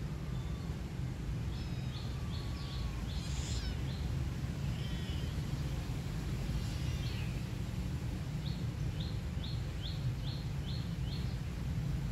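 A small bird chirping in quick runs of short high notes, about four a second, once near the start and again in the second half, over a steady low rumble.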